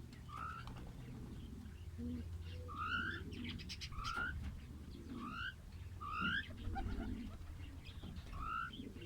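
Birds calling: a series of short rising chirps, roughly one a second, over softer low cooing sounds.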